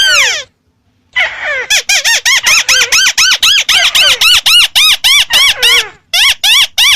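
White-browed crake calling: one descending call, then after about a second a rapid chattering run of nasal, arched notes, about five a second, with a brief break near the end.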